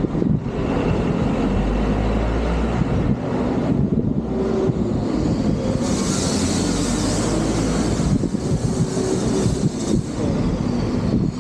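Vehicle running steadily with a low rumble, with a stretch of hissing wind or road noise about six seconds in.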